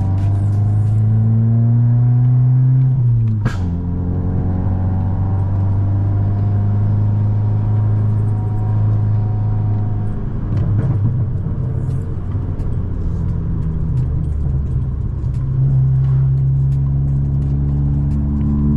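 VW Golf Mk5 1.4 FSI petrol engine pulling under acceleration: the revs climb for about three seconds, a single sharp crack comes as they drop, and the engine then pulls steadily at lower revs before climbing again near the end.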